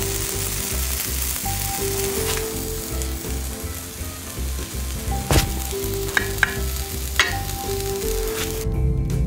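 Burger patties and fixings sizzling on hot forge steel, with a few sharp clicks about five to seven seconds in; background music with a steady beat plays underneath. The sizzling cuts off shortly before the end as the music comes up.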